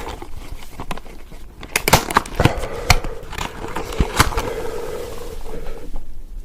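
Close-miked chewing of crunchy spicy peanuts: a run of sharp crunches about two seconds in and a few more around four seconds.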